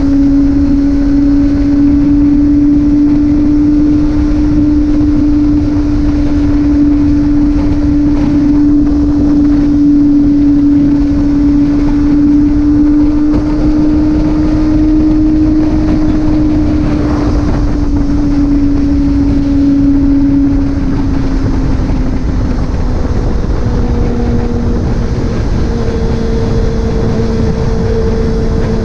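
Motorcycle engine at a steady cruise, with wind rushing over the microphone. The engine note drops a little about three-quarters of the way through, as if the rider eases off.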